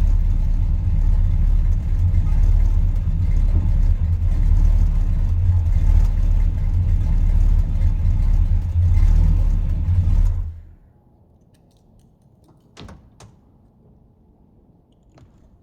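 A 1972 Chrysler New Yorker's 440 V8 idles through a dual exhaust with an H-pipe and Flowmaster 40-style mufflers, a steady low rumble. About ten seconds in the engine is switched off and the sound cuts out abruptly, leaving a few faint clicks.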